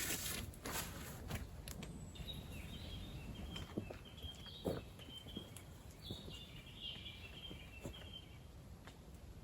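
Small birds chirping and twittering over outdoor background noise, with scattered clicks, knocks and rustles from camp gear being set up.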